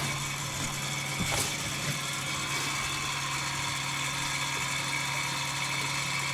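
A steady mechanical hum like a motor or engine running, with a couple of faint knocks about a second in.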